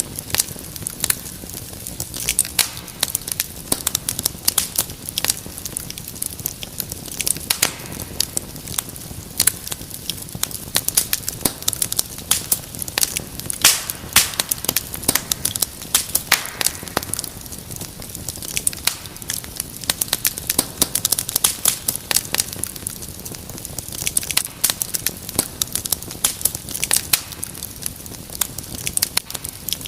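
Wood fire crackling steadily, with dense irregular sharp pops and snaps over a low hiss.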